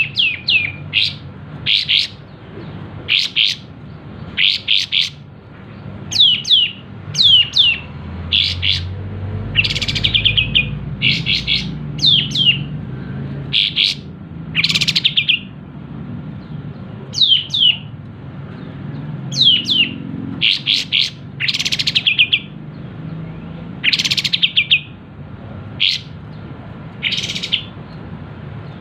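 Kapas tembak, a small bulbul, singing hard: sharp, downward-sliding chirps fired off in quick clusters of two to four, with short pauses between clusters.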